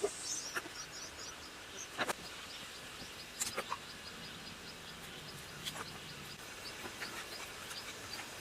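Quiet outdoor background with faint, short, high chirps repeating throughout, broken by a few sharp clicks, the loudest about two seconds in and again about three and a half seconds in.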